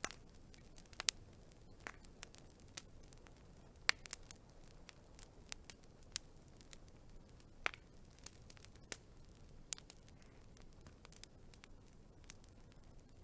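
Wood fire crackling: faint irregular pops and snaps over a low hiss, with a few louder pops scattered through.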